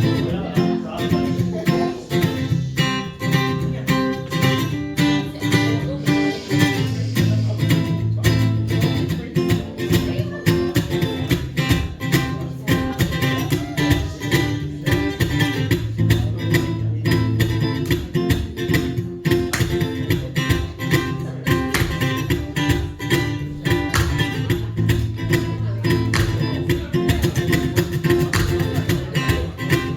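Acoustic guitar strummed in a steady, quick rhythm of sharp strokes over ringing chords, as the instrumental intro of a song.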